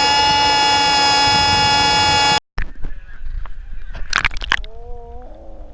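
Handheld compressed-air horn blasting one loud, steady, high honk that cuts off abruptly about two and a half seconds in. A few sharp knocks and a brief voice follow.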